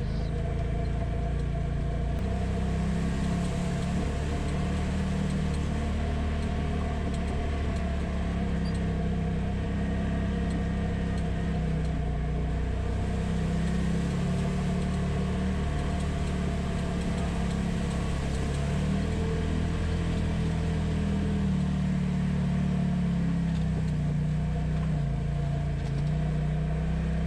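Polaris RZR side-by-side engine running steadily along a dirt trail, its note rising and falling slowly with the throttle.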